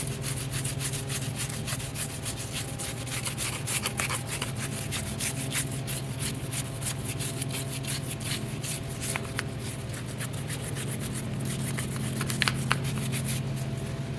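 Rapid, continuous rubbing and scrubbing strokes on greasy tractor metal as caked old grease softened by degreaser is worked over, with a steady low hum underneath.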